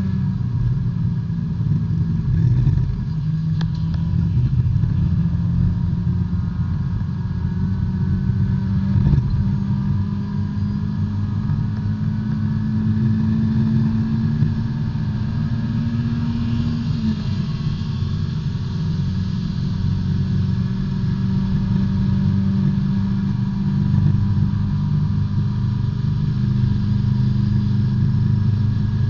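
In-cabin sound of a B-Spec subcompact race car's four-cylinder engine running hard at racing speed. Its pitch climbs slowly, then drops suddenly about seventeen seconds in.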